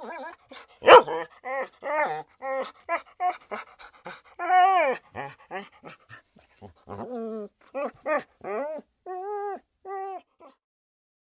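A dog whimpering and yipping in a quick run of short, high whines, with one sharp, loud yelp about a second in. The calls stop about a second before the end.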